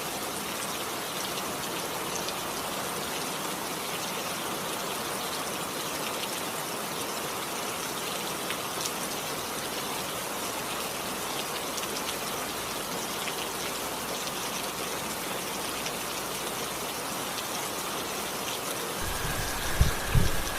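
Steady rain falling, an even hiss. Near the end a few low thumps and rumbles.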